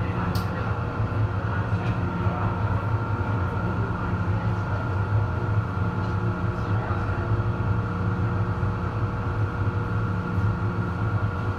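Steady hum and drone heard inside the cab of an MTR Disneyland Resort Line M-Train standing on the track, from the train's onboard electrical and ventilation equipment. It holds a few constant tones over a low rumble.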